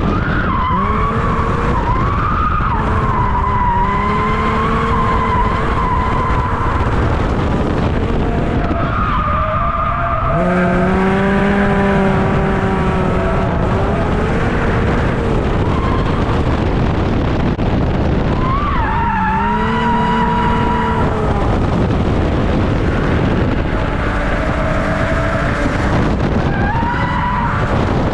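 Six-cylinder drift car engine running at high revs on track, its pitch climbing and dropping several times with throttle and gear changes, over heavy tyre and wind noise.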